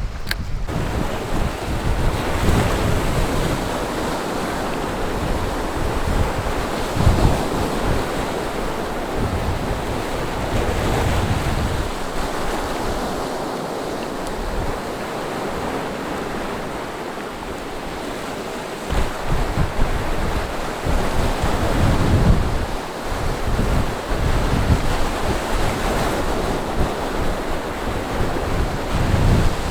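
Sea waves washing against the shore in a strong onshore wind, with gusts buffeting the microphone in uneven low rumbles.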